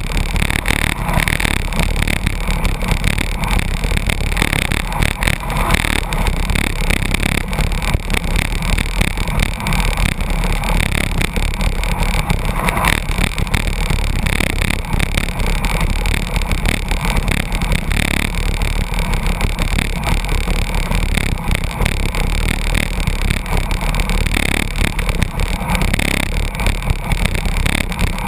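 Loud, steady rush of wind and road noise on a bicycle-mounted camera's microphone, riding at about 82 km/h in a truck's slipstream.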